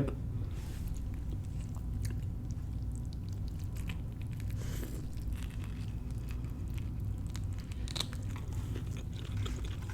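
A person chewing a mouthful of fried catfish sandwich on a pretzel bun: soft chewing with a few faint clicks, over a steady low hum.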